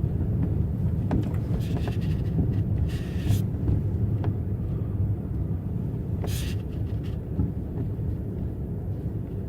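Car driving on a rough, snowy road: a steady low rumble of tyres and engine, with a few short hissing swishes and faint knocks.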